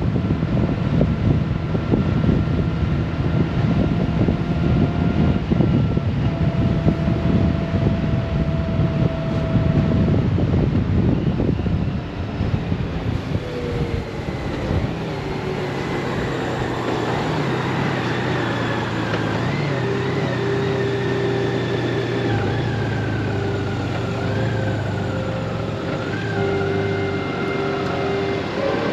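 Honda Gold Wing motorcycle riding on the road, with heavy wind rumble on the microphone at speed. About twelve seconds in the wind noise drops away as it slows, leaving the steady note of the engine along with passing traffic.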